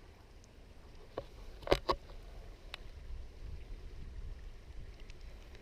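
Steady low wind rumble on the microphone with water lapping, broken by a few short sharp clicks or splashes, the loudest about a second and a half in.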